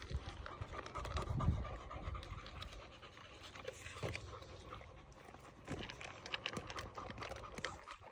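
Cane Corso puppies panting and moving about, with scattered small clicks and scratches.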